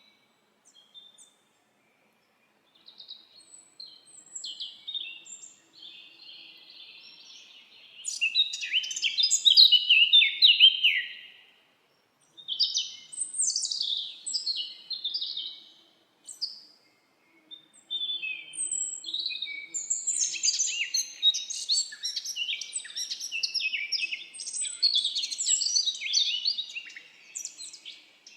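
Forest songbirds singing in phrases of quick, high chirping notes, with a few short pauses. The songs overlap into a dense chorus in the second half.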